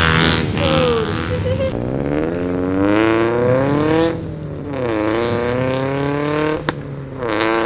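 Car engine accelerating hard through the gears: its pitch climbs, drops at a shift about four seconds in, climbs again and drops near the end. A single sharp crack sounds just before the final drop.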